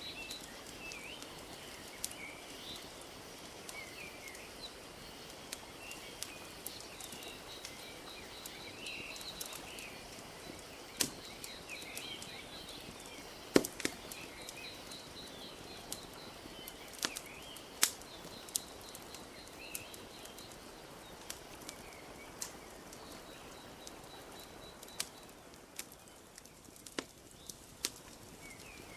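Wood fire crackling, with scattered sharp pops (the loudest about halfway through), over a steady soft wash of lapping lake water, with small birds chirping.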